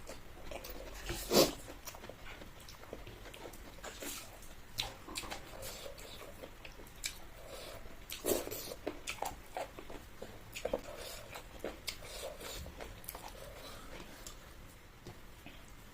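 A person eating: close chewing and mouth sounds with scattered small clicks and taps, and one sharper, louder tap about a second and a half in.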